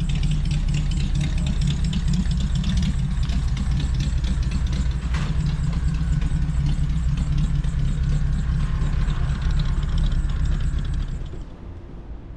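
1952 Mercury Monterey's engine running steadily with a low, even rumble. It drops away abruptly about a second before the end.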